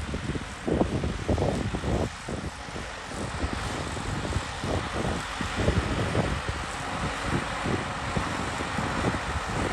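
Tractor engine running, with wind buffeting the microphone in irregular low thumps.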